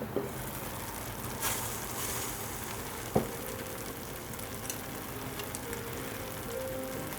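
Kimchi fried rice sizzling steadily in a hot earthenware ttukbaegi pot, with a sharp click about three seconds in.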